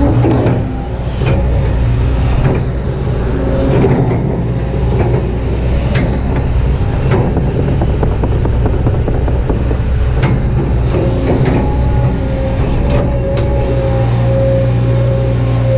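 Kobelco SK200-8 excavator working: its diesel engine running steadily with a whine that grows stronger near the end, and occasional knocks and clicks from the machine as it works.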